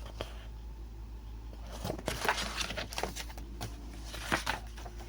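Pages of a picture book being turned: a few soft rustles and taps, busiest about two seconds in, over a low steady hum.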